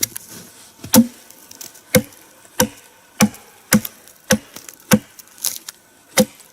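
Axe chopping into a log, about ten sharp strikes in a steady rhythm of one or two a second. The blows strip the bark and break up the wood's surface layers so the log catches fire faster.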